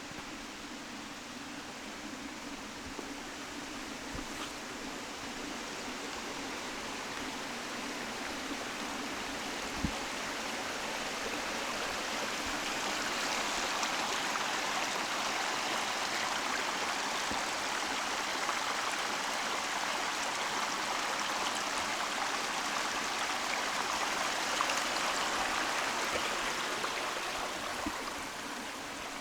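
A hill stream flowing, its rushing sound growing louder over the first half, holding steady, then easing off slightly near the end.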